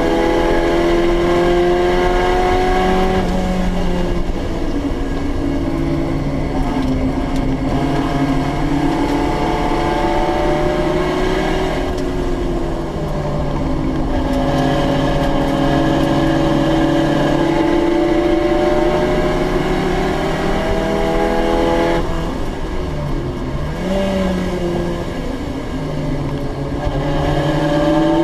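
Group A and Group C touring-car engines racing at full throttle. Their engine notes climb slowly and drop sharply three times, like gear changes, over a steady roar of engine and tyre noise.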